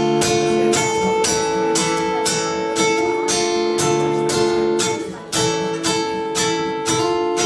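Acoustic guitar strummed in a steady rhythm, about two strokes a second, over ringing chords, with a brief drop in loudness about five seconds in.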